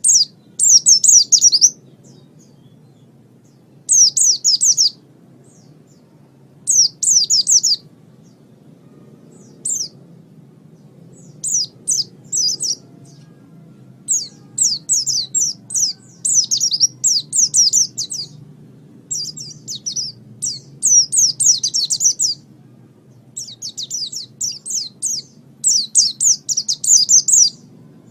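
White-eye (pleci) singing in short bursts of rapid high chirps, each about a second long and repeated every second or two, over a steady low hum.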